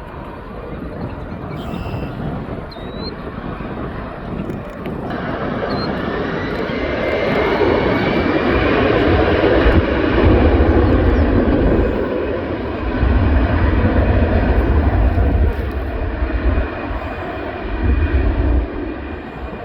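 Airbus A320 jet engines passing, the noise building about five seconds in with a rising whine, loudest through the middle, then easing a little toward the end.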